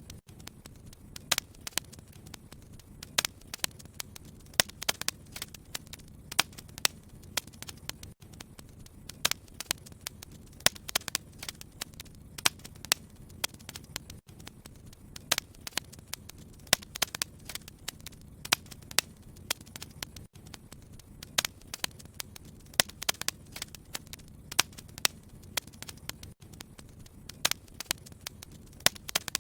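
Wood fire crackling in a fireplace: frequent irregular sharp pops and snaps over a low steady rumble of burning.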